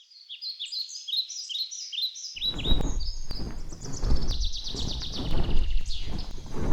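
Small birds chirping in a rapid chatter of short, falling high notes. About two and a half seconds in, a loud, uneven low rumble cuts in suddenly beneath them.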